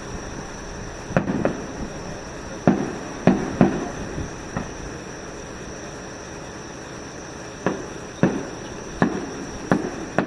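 Fireworks shells bursting: about ten sharp bangs in two clusters, each with a short echoing tail.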